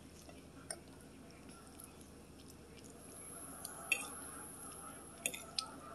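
Close-up chewing of a mouthful of food: soft, wet mouth smacks with a few sharp clicks, the clearest about four seconds in and twice near the end.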